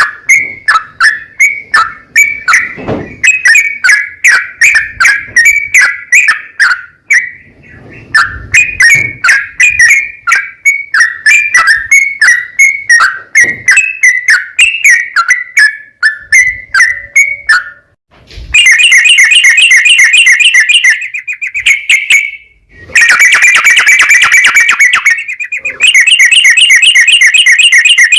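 Yellow-vented bulbul (trucukan) singing. A long run of quick, chattering chirps leads into three loud, rapid rolling trills (ropel), each a couple of seconds long, in the last third.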